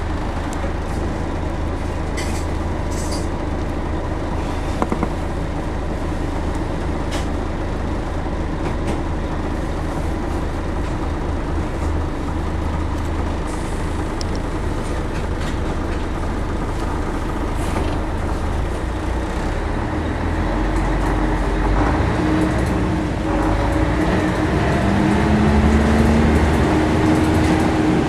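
Scania L113-CRB bus's 11-litre six-cylinder diesel running steadily with a low rumble, then rising in pitch and level over the last several seconds as it pulls away under load.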